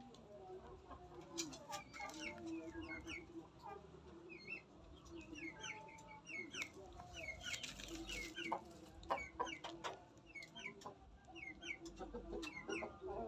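Chickens clucking steadily in low notes, mixed with many short high chirping calls and scattered sharp clicks.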